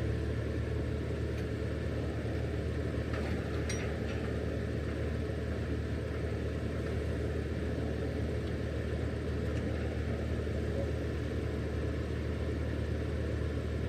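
An engine running steadily at an even, unchanging speed, a low rumbling hum.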